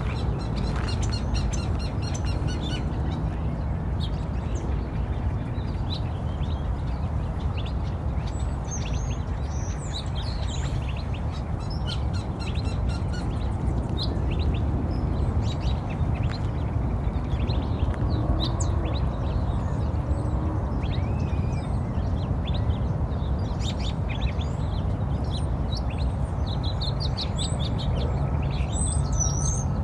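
Birds chirping and calling in many short, high chirps over a steady low rumble.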